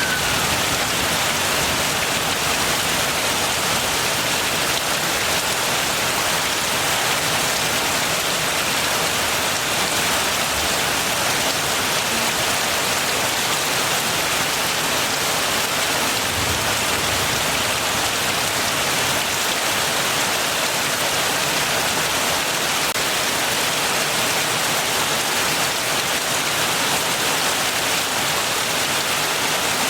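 Steady heavy rain: an even, unbroken hiss of falling drops.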